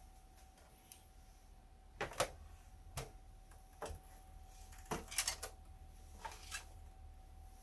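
Irregular light clicks and knocks, about eight of them spread over several seconds, from handling the opened multimeter's metal chassis and parts. A faint steady hum sits underneath.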